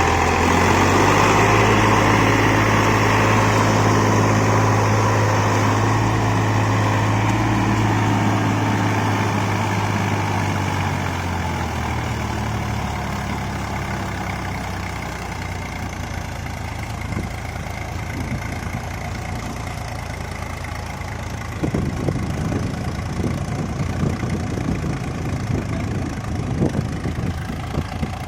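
VST 45 hp tractor's diesel engine running steadily, its note easing down and growing quieter after about ten seconds. About three quarters of the way through, irregular knocks and rattles join it.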